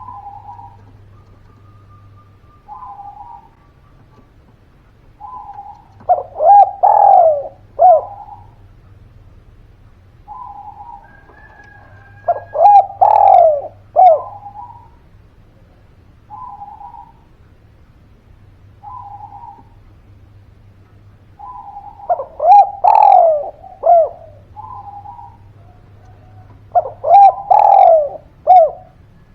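Spotted dove (derkuku) cooing: soft single coos every two to three seconds, broken by a loud rolling multi-note coo phrase four times, about every six to eight seconds. It is a lure call meant to get other doves to answer.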